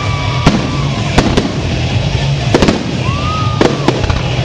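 Fireworks going off: a string of sharp bangs at irregular intervals, with a whistling firework's tone gliding up and then down about three seconds in.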